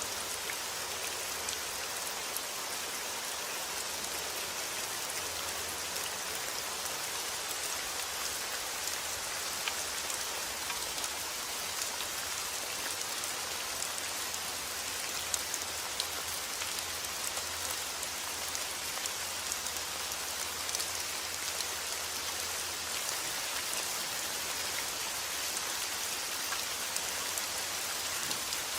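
Steady rain falling: a dense, even hiss with many individual drops ticking through it.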